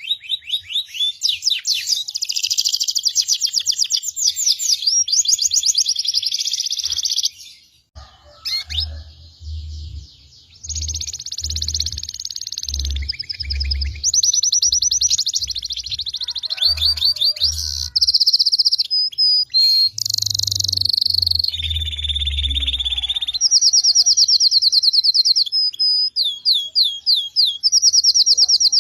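Songbirds singing loudly in fast rolling trills and quick repeated chirps, almost without pause, with a short break about seven seconds in. Low dull thumps sound beneath the song through the middle part.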